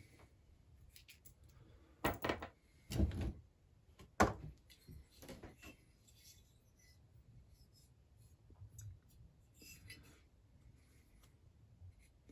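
Chainsaw parts being handled on a workbench during a strip-down: three sharp knocks and clatters about two, three and four seconds in, then small scattered handling and rubbing noises.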